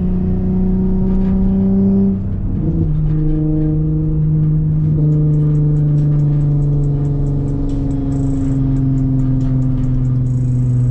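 Car engine heard through a custom titanium single-exit exhaust with high-flow catalytic converters and titanium Y-pipe, pulling under acceleration with a rising drone. About two seconds in there is an upshift, after which it drones steadily in the higher gear, its pitch slowly falling.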